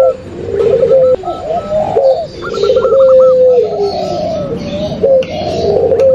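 Several doves cooing together in an overlapping chorus, the mix of zebra dove and Streptopelia turtle doves (derkuku and puter pelung collared dove) used as a lure call. Long held coos step down in pitch, overlaid by quicker, higher looping notes.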